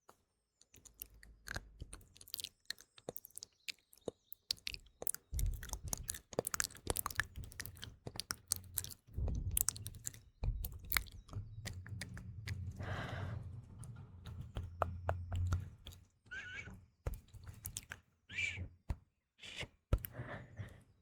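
Close-miked ASMR mouth sounds: a dense, irregular run of wet clicks, smacks and tongue pops, with faint birdsong mixed in behind.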